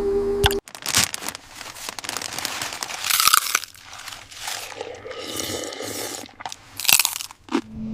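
Irregular crunching and scraping noises, loudest around a second, three seconds and seven seconds in.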